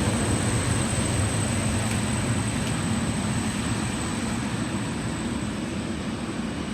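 Endeavour diesel railcar pulling out of the station, its low engine and running rumble slowly fading as it draws away.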